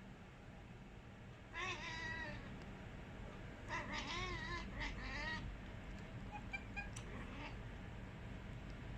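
Domestic cat chattering at birds: two bouts of quick, warbling chirps, the first about one and a half seconds in and a longer one about four seconds in.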